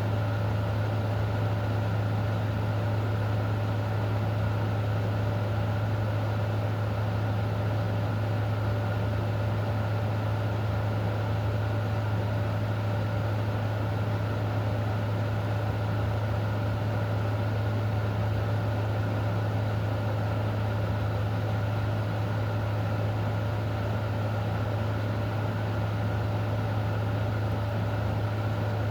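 A steady, unchanging low mechanical hum with a few fainter steady tones above it, over an even hiss of rain.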